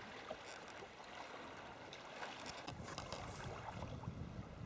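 Faint water sounds around a sea kayak: small splashes and drips on the water and hull. A low rumble comes in about halfway through.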